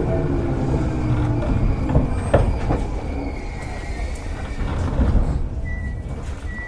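Interior running sound of a Seibu 101 series electric motor car slowing down. The low-pitched traction motor hum falls away, the wheels knock over rail joints, and a thin brake squeal comes in the second half as the rumble eases toward a stop.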